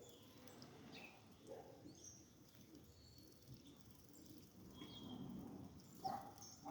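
Small birds chirping faintly, with scattered short high calls over a quiet background, and a louder single call about six seconds in.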